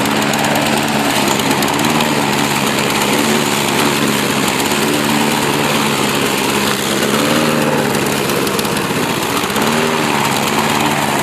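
Lawn mower's small gasoline engine running steadily, its pitch wavering up and down a few times in the second half. It is the rough, droning running the owner blames on tainted gas.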